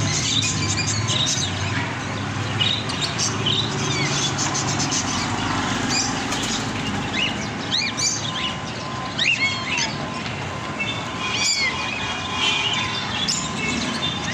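Small birds chirping in short, scattered calls over a steady background din.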